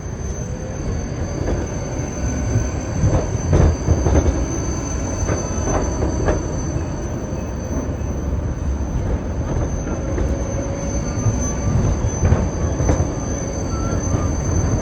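Electric city train running on rails: a steady low rumble with scattered knocks from the wheels, under a thin, steady high whine.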